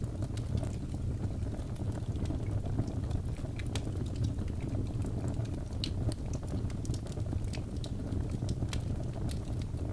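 Fire burning in a fireplace: a steady low rumble of flames with irregular sharp crackles and pops throughout.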